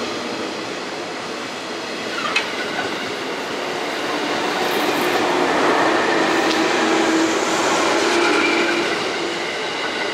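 JR West 117 series eight-car electric train pulling out of the station and rolling past close by: steady wheel-on-rail running noise, with a sharp click about two seconds in and a low steady tone swelling through the middle as it gathers speed.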